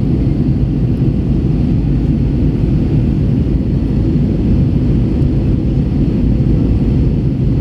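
Steady low rumble of an Airbus A321 in flight, engines and airflow heard from inside the cabin.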